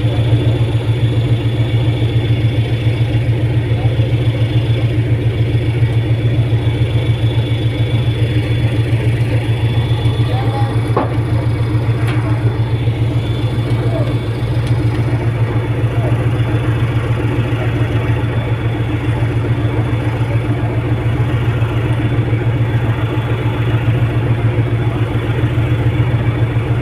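Steady low drone of a fast ferry's engines, heard aboard, holding an even level throughout.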